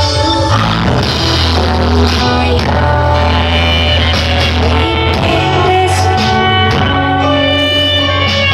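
Loud music played through a large carnival sound system, with a heavy, booming bass under a melodic line.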